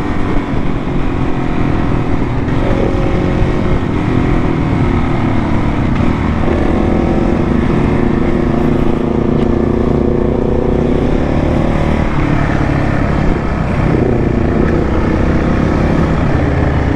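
Motorcycle engine running under way on a group ride, its pitch sliding and then jumping with throttle and gear changes over a steady rush of wind and road noise.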